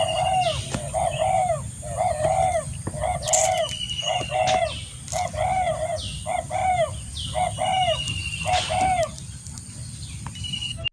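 Wild birds calling: a steady series of short, evenly repeated calls about every two-thirds of a second, with another bird's higher, falling trilled whistles now and then and a steady high-pitched whine underneath.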